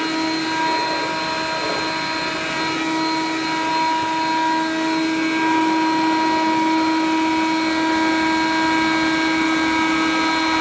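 Hoover Conquest upright vacuum cleaner running steadily, its motor giving a constant whine over the rush of air. It gets slightly louder about halfway through.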